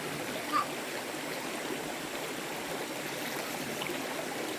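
Steady rushing of flowing water, like a stream running high, with one brief short sound about half a second in.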